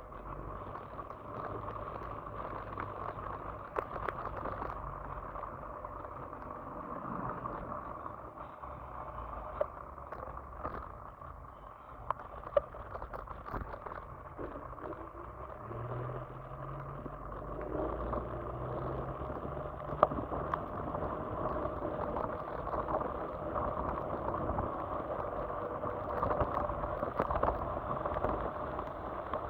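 Kugoo electric scooter being ridden: a steady motor whine over road and tyre noise, with a few sharp knocks and rattles from the frame.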